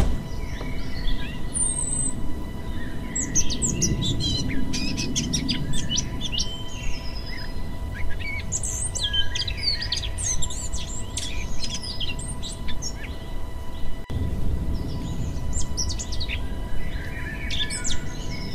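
Several wild birds chirping and singing in short, repeated calls and trills over a steady low background rumble of outdoor noise.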